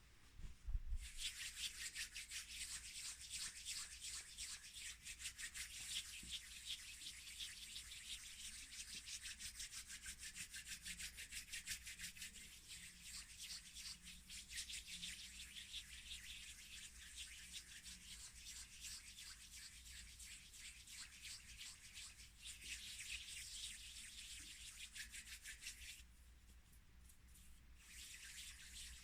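Fast, close-miked rubbing, a scratchy hiss of many quick strokes, starting about a second in, stopping for about two seconds near the end, then starting again.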